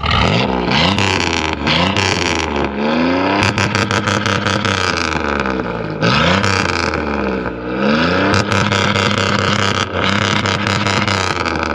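Loud car engine being revved hard, its pitch sweeping up and dropping back several times, with rapid crackling pops between the revs.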